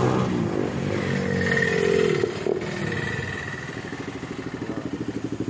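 Bajaj Dominar 400's single-cylinder engine running with no exhaust silencer. Its note falls over the first two seconds, one sharp pop comes about two and a half seconds in, and then it settles into slow, even firing pulses that grow louder toward the end.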